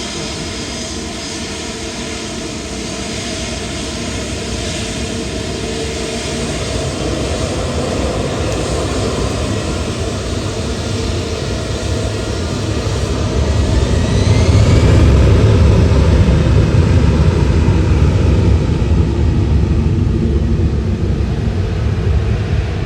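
Jet airliner's engines heard as the aircraft goes by, a steady roar that grows louder and turns into a deep rumble about two thirds of the way in, with a brief gliding whine as it passes.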